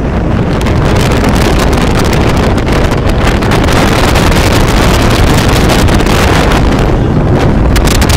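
Heavy wind buffeting the microphone of an antique American car as it drives, with the car's running rumble underneath; loud and steady throughout.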